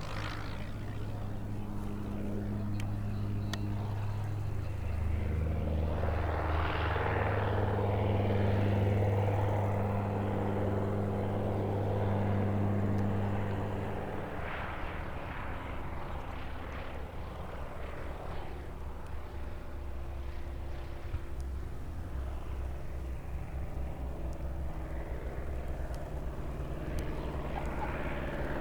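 Piston engine of a light propeller aircraft running with a steady drone that grows louder toward the middle, then drops off about halfway through to a lower rumble.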